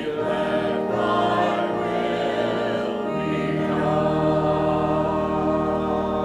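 A congregation sings the close of a hymn with accompaniment, moving into a long final chord held from about halfway through.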